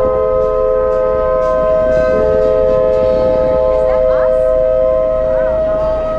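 Multi-chime locomotive horn sounding one long blast, several notes held together as a chord. One or two of the notes drop out briefly partway through.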